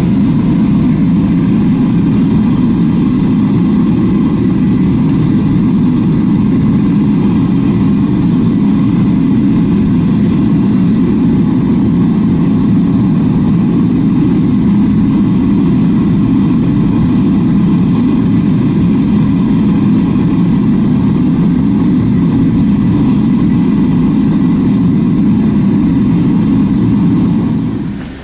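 Loud, steady machine noise, like a motor or burner running continuously, that cuts off about a second before the end.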